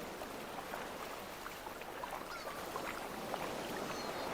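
Surf washing over a rocky shore, a steady rush of water, with a few short high-pitched calls scattered through it.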